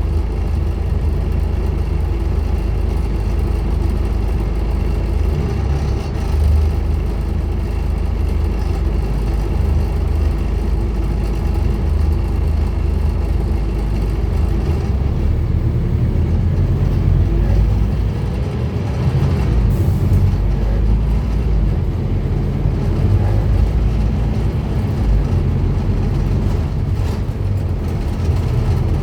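Diesel engine of a Scania N230UD Omnicity double-decker bus running at a steady, loud level, a low drone with road noise, its engine note shifting about halfway through.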